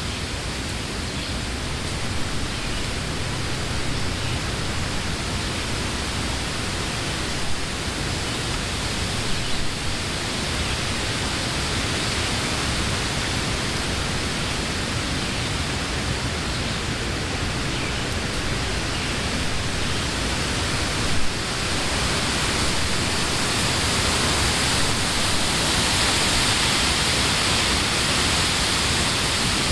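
Wind blowing through leafy trees, a steady rush of leaves that swells stronger and brighter over the last several seconds, with a few brief louder gusts.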